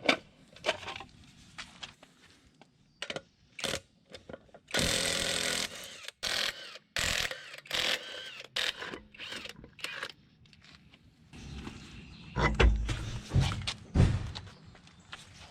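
A rear wheel on a Ford 8.8-inch axle being spun and rocked by hand. It gives scattered clunks and knocks, a stretch of rough spinning noise about five seconds in, and a few heavy thuds near the end. The looseness and rough sound come from a worn rear axle bearing.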